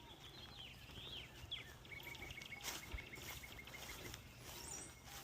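Faint birdsong: several short down-slurred chirps, then a quick run of about a dozen even notes, over a low steady background hum.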